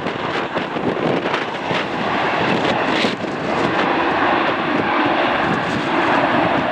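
Jet airliner engines passing overhead, a steady loud rushing that grows a little louder about two seconds in, with wind gusting on the microphone in the first few seconds.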